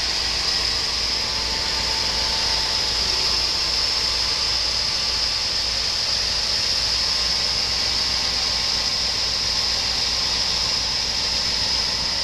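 1996 Chevrolet Silverado 1500's 5.7-litre small-block V8 idling steadily, with a strong steady high-pitched hiss over it.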